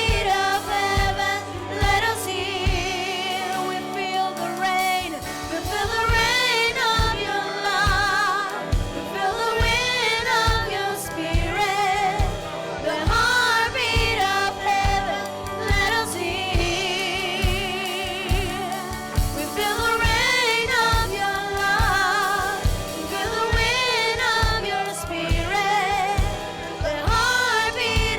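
Worship music: singing with heavy vibrato over a band with a steady beat.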